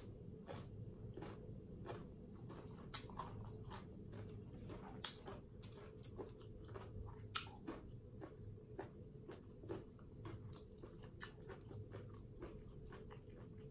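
Faint, close-miked chewing of a mouthful from a Thai papaya salad tray, with many small, irregular wet clicks and light crunches.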